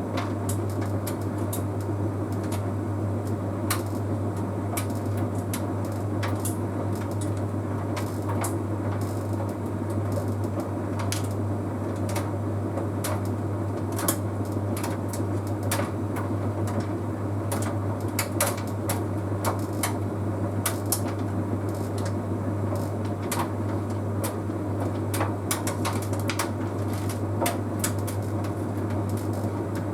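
Bosch Series 6 heat pump tumble dryer running mid-cycle: a steady low hum and rumble from the drum and heat pump, with irregular light clicks and taps from the load tumbling in the drum.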